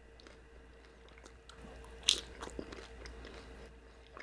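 A person chewing food close to the microphone, with small wet mouth clicks and one sharp, crisp bite about two seconds in, followed by a few smaller crunches.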